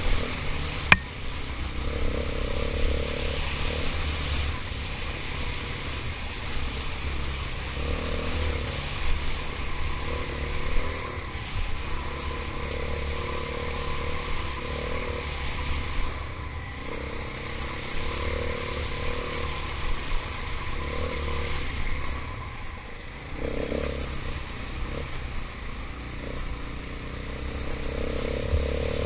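KTM 500 EXC dirt bike's single-cylinder four-stroke engine running on a trail ride, with the throttle opening and closing repeatedly. There is a sharp click about a second in.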